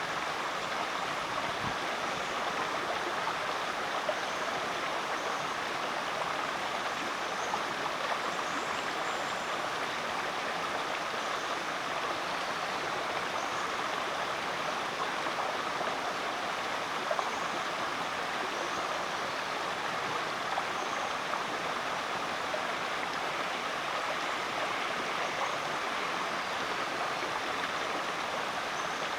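Rainforest creek water flowing steadily over rocks, an even rushing and bubbling. A few faint, short high-pitched calls sound now and then above it.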